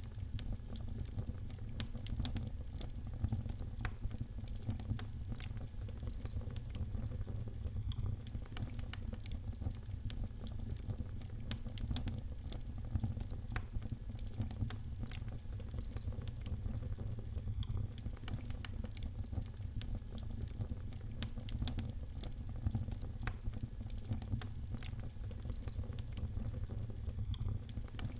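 Wood fire in a fireplace crackling steadily, with frequent irregular sharp pops and snaps over a low, steady rumble.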